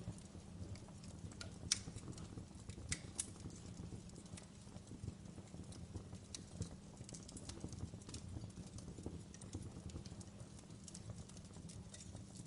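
Wood logs burning in a fireplace, crackling with irregular sharp pops, the loudest about a second and a half in and again near three seconds, over a steady low rumble.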